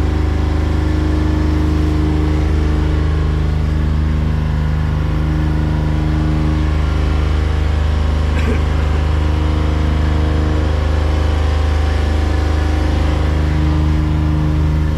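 Tour boat's engine running steadily at cruising speed, a loud, even drone with a strong low hum.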